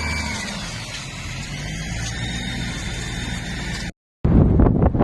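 A motor vehicle engine running steadily, its pitch dropping a little about half a second in. Near the end the sound cuts out briefly and is followed by wind buffeting the microphone.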